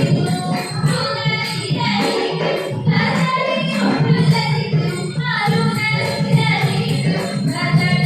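Ottan thullal song: voices singing the verse in a chanting melody, over small hand cymbals or bells jingling steadily in rhythm.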